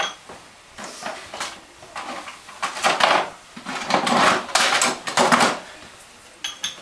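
Metal tools and parts clattering and clinking in irregular bursts, a few strikes ringing briefly, with no engine running.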